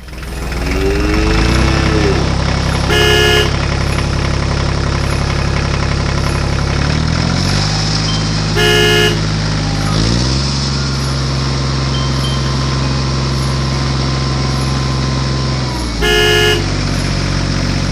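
Tractor diesel engine running; its pitch steps up or down a few times. Three short horn honks come about three, nine and sixteen seconds in.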